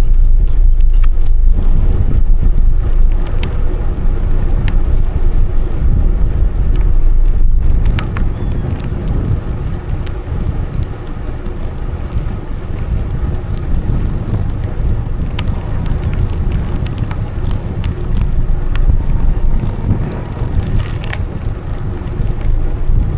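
Wind buffeting the microphone of a camera riding along on a bicycle, with rolling tyre rumble and scattered clicks and rattles from the bike. The buffeting is heavier for the first eight seconds or so, then eases a little.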